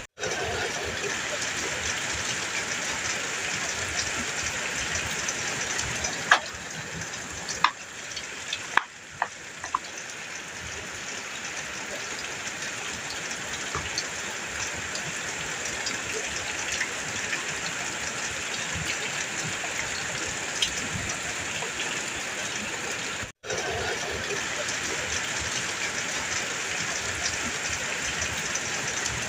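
Heavy rain falling steadily on a metal roof, with a few sharp drops striking the metal between about six and nine seconds in. The sound cuts out for an instant right at the start and again about 23 seconds in.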